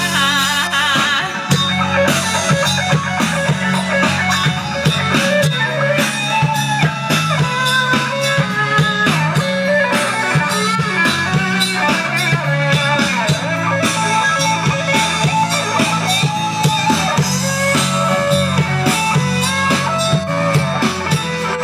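Rock band playing a song, with guitar over a drum kit and little or no singing.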